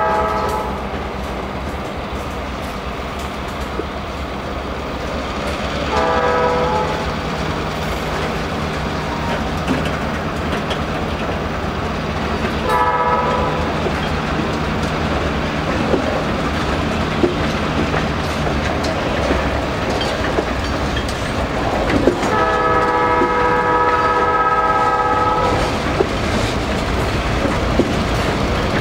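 A freight train of tank cars and covered hoppers rolls steadily over a grade crossing: a continuous rumble of wheels on rail with an occasional clank. A diesel locomotive's multi-note horn sounds four times: briefly at the start, again about 6 s in, a short blast about 13 s in, and a long blast of about three seconds starting about 22 s in.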